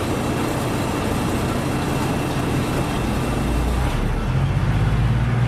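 Train running: a steady rumble with a low engine drone that grows stronger about four seconds in.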